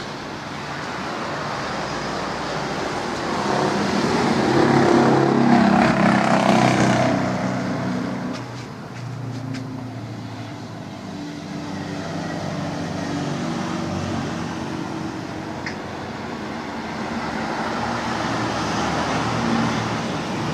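Road traffic: vehicles passing on a road, with engine hum and tyre noise. One vehicle passing is loudest, swelling from about three seconds in and fading after about seven seconds.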